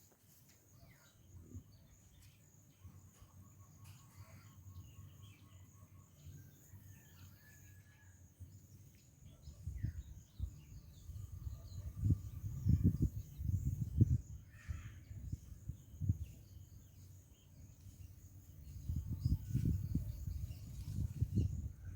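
Countryside ambience: scattered bird calls and a steady high-pitched insect drone, broken by bursts of low rumbling about ten seconds in and again near the end.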